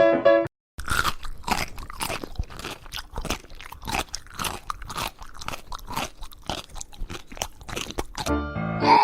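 Close-up crunching and chewing of crunchy food, many quick irregular bites. Piano music cuts off just after the start and music comes back near the end.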